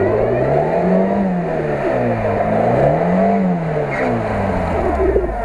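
A Lada Niva's four-cylinder engine revving hard twice, its pitch climbing and falling back each time, as the stuck car churns in deep mud with its wheels spinning.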